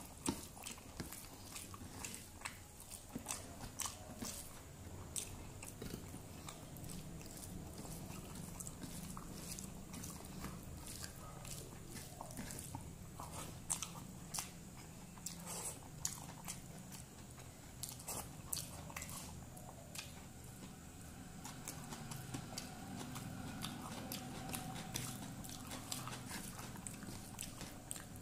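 Close-up chewing and crunching of a mouthful of rice with vegetables, eaten by hand, with frequent sharp mouth clicks and smacks.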